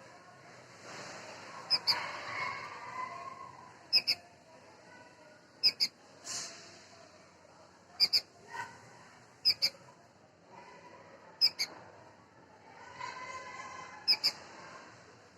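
Bulbul chicks calling: short sharp chirps in pairs, repeating about every two seconds, over a faint wavering background.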